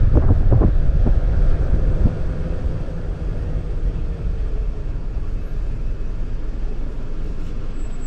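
Wind buffeting an action camera's microphone, a steady low rumble, with a few knocks in the first second and a faint tone sliding slowly lower.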